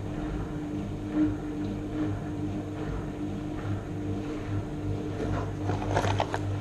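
Newly fitted universal drain pump in an Indesit IWE81481 washing machine running on test in the empty machine: a steady electric hum, with a few clicks near the end.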